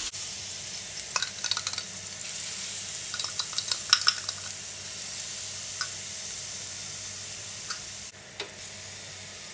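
Ground spice paste of chillies, shallots and garlic sizzling in hot cooking oil in a frying pan, a steady hiss with scattered crackles and pops. The sizzle turns quieter about eight seconds in.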